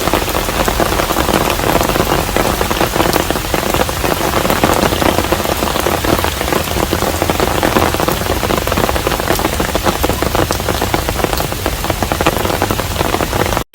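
Steady rain falling at a hanok, a dense wash of drops with many individual drop hits. It cuts off abruptly just before the end.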